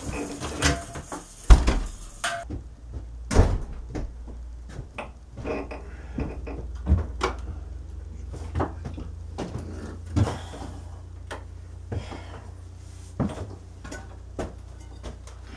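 Guitar music ends about two seconds in. After that come scattered knocks and clunks of objects being handled, over a steady low hum.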